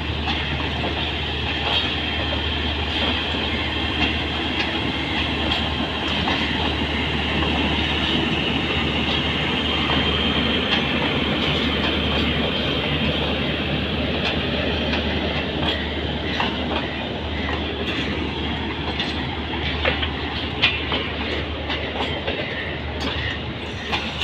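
Passenger coaches rolling slowly past on an arriving train, a steady rumble of wheels on the rails. Wheels clatter over the rail joints in sharp clicks that become more frequent in the second half.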